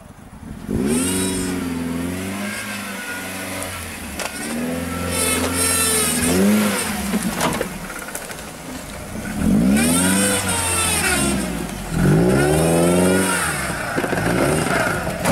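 Lifted Suzuki Jimny's engine revving hard in repeated surges, rising and falling about four times as the 4x4 claws up a sandy bank.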